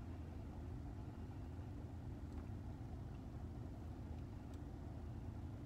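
A car's engine running, heard from inside the cabin as a steady low rumble.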